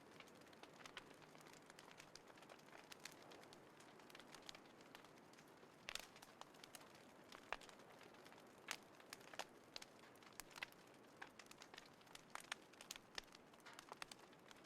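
Small wood fire crackling in a folding fire pit: irregular sharp pops and snaps over a soft, steady hiss.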